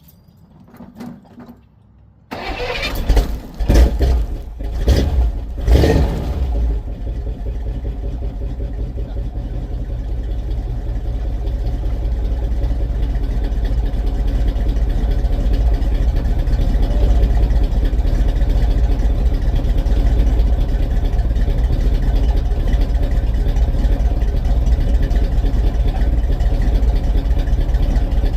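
1978 Chevy C10 truck engine starting for the first time in years on gas poured down the carburettor. It catches suddenly about two seconds in, surges unevenly for a few seconds, then settles into steady running.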